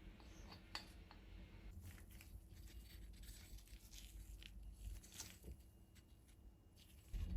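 Near silence: quiet room tone with a few faint small clicks.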